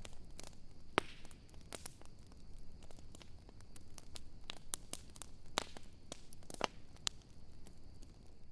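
Wood campfire crackling: irregular sharp pops and snaps over a steady high hiss, with louder pops about a second in and again about five and a half and six and a half seconds in.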